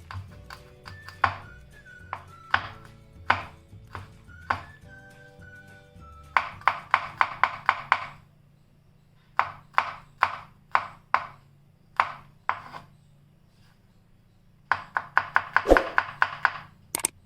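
Knife finely dicing ginger and garlic on a chopping board: quick runs of sharp taps, about six a second, broken by pauses and slower single chops, with soft background music.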